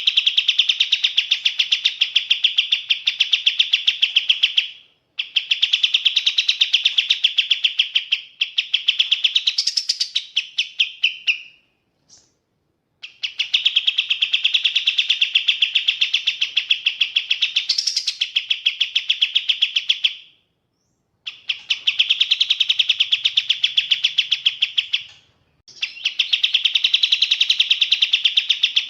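Kapas tembak songbird singing long, fast trills of rapidly repeated notes, about five notes a second. The song comes in bouts of several seconds broken by brief pauses, five bouts in all.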